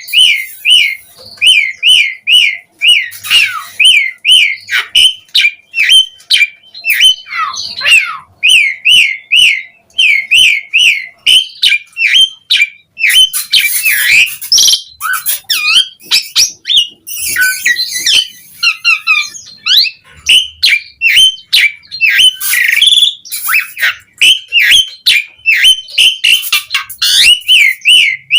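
Asian pied starling singing non-stop: a fast string of short, repeated whistled notes, about three a second, broken now and then by harsher, scratchy chattering phrases.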